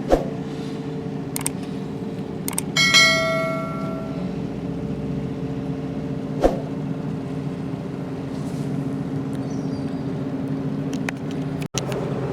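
Steady low engine drone, as from a ship at the landing stage, with a few sharp knocks. About three seconds in a single metallic strike rings out and dies away over about a second.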